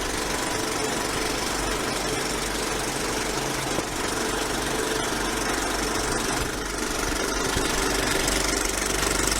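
Yamaha MT-07 motorcycle's parallel-twin engine with an Akrapovic exhaust, running steadily.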